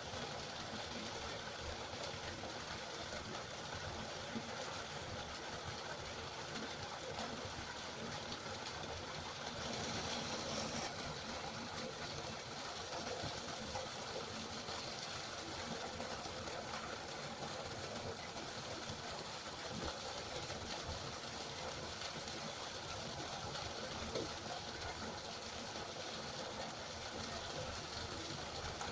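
River water flowing: a steady, even rush of water noise, briefly a little brighter for about a second near ten seconds in.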